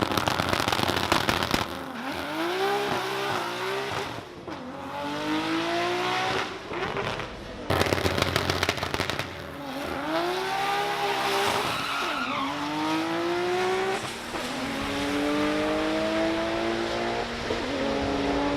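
Drag race cars launching off the line with a dense, rapid crackle of bangs, then the engine note climbing in pitch through several gear changes as each car accelerates away. A second launch with the same crackle comes about eight seconds in, and near the end a steadier engine note rises slowly.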